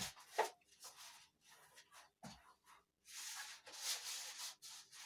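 Faint handwriting: a string of short scratchy writing strokes, busier from about three seconds in.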